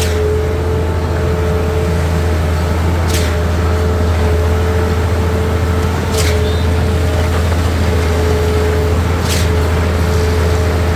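Heavy diesel truck engine running steadily at a concrete pour, with a short sharp hiss-like sound repeating about every three seconds.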